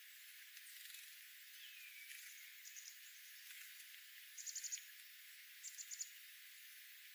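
Birds calling: a short falling whistle, then a couple of quick bursts of rapid high notes about halfway through, which are the loudest sounds, over a faint steady hiss.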